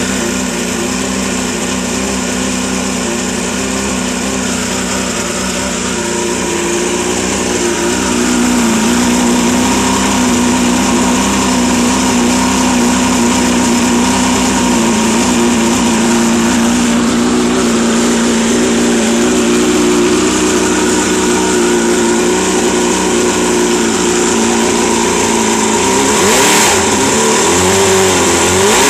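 A freshly rebuilt Mercury Mark 30H racing outboard's two-stroke engine running steadily, a little louder after about eight seconds, with its speed wavering up and down near the end.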